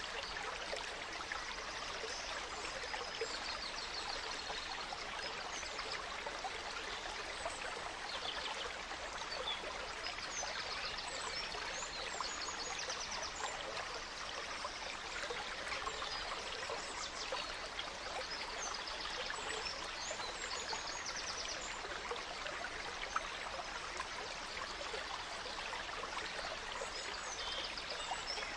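Gentle stream trickling and rippling steadily, with small songbirds chirping and giving short rapid trills now and then.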